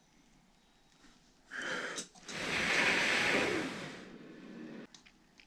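A person's breath blown out twice: a short puff, then a longer, stronger blow of about two and a half seconds that fades away.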